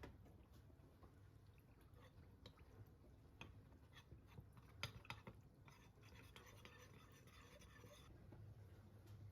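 Faint kitchen handling sounds: scattered light clicks and taps, one sharper tap about five seconds in, and a soft rustle for about two seconds after the middle.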